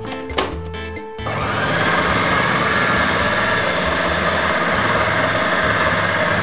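Electric blender's chopper bowl switching on about a second in and running steadily, chopping minced meat together with soaked soybeans. Background music with clicking beats before it starts.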